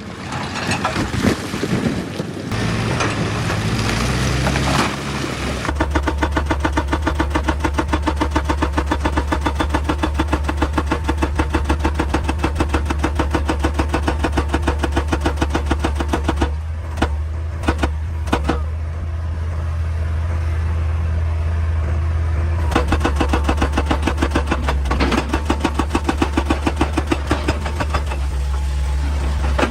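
Heavy excavator's diesel engine running with a steady low drone, overlaid from about six seconds in by a regular rapid pounding of about five beats a second; the first seconds are a rougher, irregular noise.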